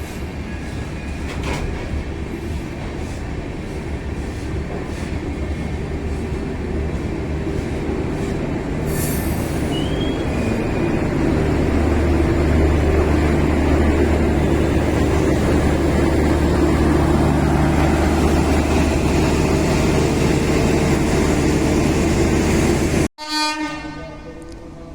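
Express train running through a station at speed without stopping: a steady rumble of wheels on rails that grows louder about halfway through, then cuts off abruptly near the end.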